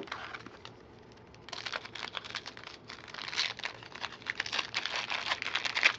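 Plastic wrapper of a football card pack crinkling and tearing as it is opened: a dense, irregular crackle that starts about a second and a half in.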